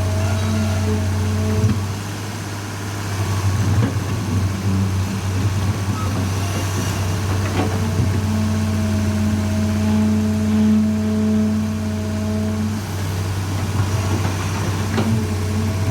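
Excavator diesel engine idling with a steady low hum, and a few sharp knocks about halfway and near the end.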